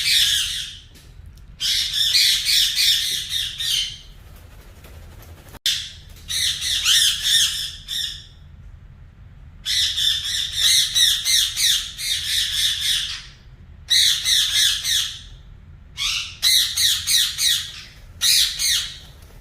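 Pet parrot squawking in repeated harsh, rapidly pulsing bouts, each lasting from under a second to a few seconds, with short pauses between.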